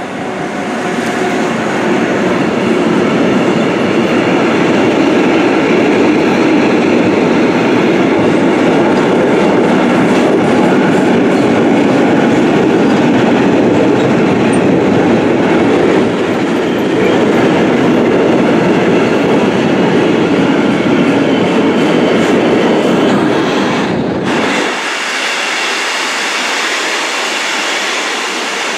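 Long freight train of covered sliding-wall wagons, hauled by a TRAXX electric locomotive, rolling past at speed: a loud, steady rail rumble with wheel clatter. About 24 seconds in, the deep part of the rumble cuts out abruptly, leaving a lighter hiss of the wagons going by.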